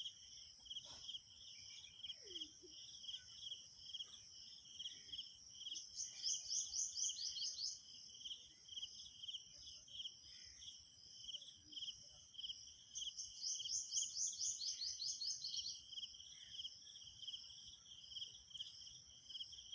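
Quail calling: twice, a loud rapid high trill of quick falling notes lasting about a second and a half. Beneath it runs a continuous fast, high insect-like chirping.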